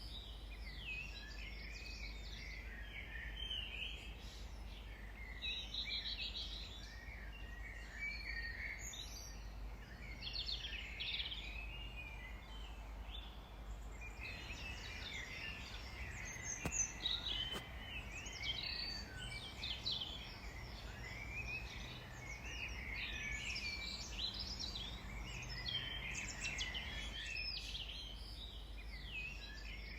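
Garden birds singing and chirping, several songs overlapping in quick trills and twitters, over a steady low background hum.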